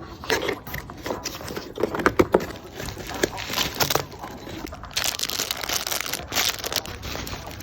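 Packaging being handled: crinkling and rustling with scattered small taps and knocks, and a longer stretch of rustling about five seconds in.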